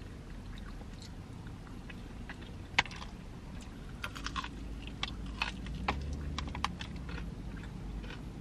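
Close-up eating of KFC extra crispy fried chicken: scattered crisp crunches and mouth clicks as the breaded skin is bitten and chewed. There is one sharp crunch about three seconds in and a cluster of crunches between about four and seven seconds.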